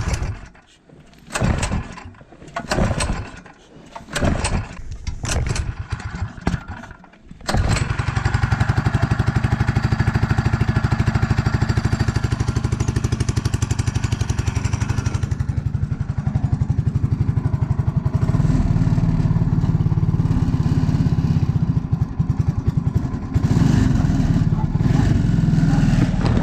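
Go-kart's small engine being cranked in several short attempts, then catching about seven seconds in and running on steadily, its note changing a couple of times. The engine is starting after sitting unused for a month or two.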